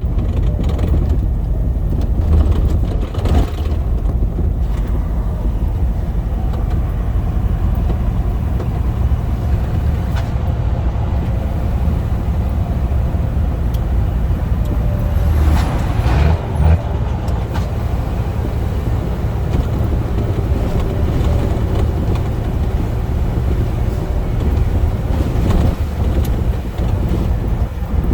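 Scania truck's diesel engine running steadily on the highway, a continuous low drone with road noise.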